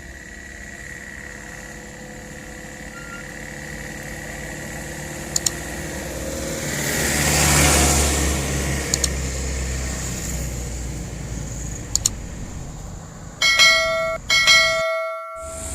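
Truck engine running, growing louder to a peak midway. Near the end come two short truck horn blasts.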